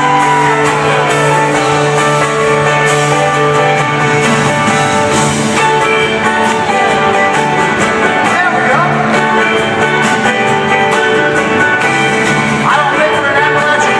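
Live band music at full volume, led by guitars playing sustained chords, with some singing.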